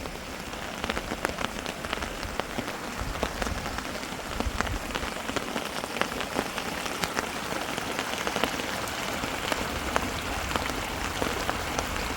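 Heavy rain falling steadily, many drops ticking sharply on a hard surface.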